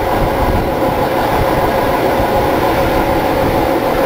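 Heritage steam train carriage running along the track, a steady loud rumble heard from the open carriage doorway.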